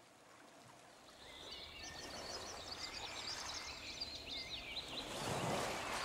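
Outdoor ambience: a small songbird sings rapid twittering phrases over a soft rushing background, which swells about five seconds in. The sound fades in from near silence at the start.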